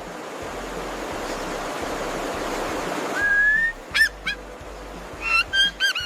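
A rushing noise for the first three seconds, then a bird calling: one held, slightly rising note, two short arched notes, and a quick cluster of notes near the end that ends in a falling glide.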